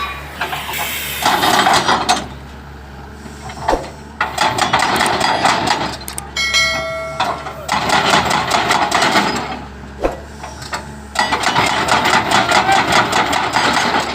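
Excavator-mounted hydraulic breaker hammering in bursts of rapid blows, four runs of a few seconds each with short pauses between, over the steady hum of the excavator's engine.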